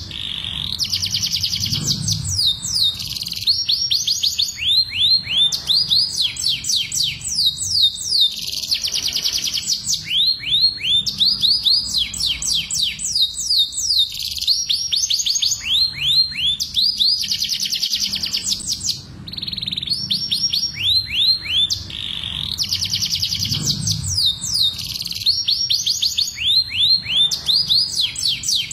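Domestic canary song: fast rolling trills of quick downward-sweeping notes, delivered in a continuous stream with only brief breaks. This is the breeding-season song of a male in full voice, used as a mating lure.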